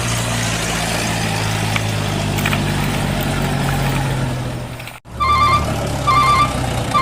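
Truck engine running steadily under load for about five seconds, then cut off abruptly. It comes back with a pulsed electronic beep repeating a little faster than once a second, like a reversing alarm.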